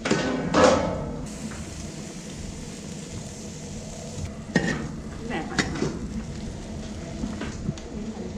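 Food stir-frying in a hot pan: a loud burst of sizzling at the start settles into a steady sizzle, with several sharp metal clanks of the spatula against the pan about halfway through.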